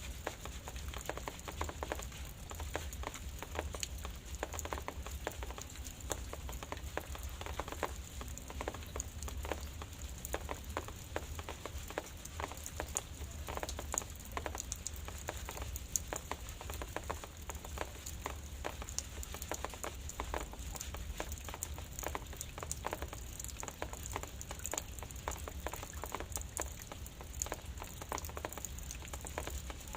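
Drizzle falling, with many small drops ticking irregularly and continuously over a steady low rumble.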